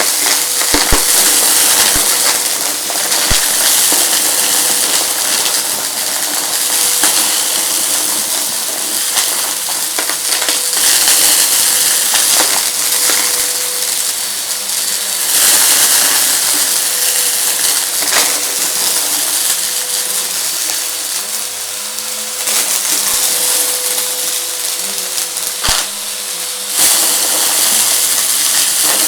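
Vacuum cleaner running over a rug, its motor holding a steady whine under a loud rush of air. The air noise swells and eases every few seconds, and the crunchy debris being sucked up makes scattered sharp clicks and crackles.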